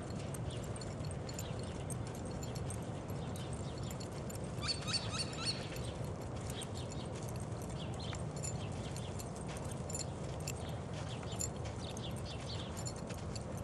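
Small birds chirping over a steady low outdoor rumble, with a quick burst of rising chirps about five seconds in and scattered short high calls after it.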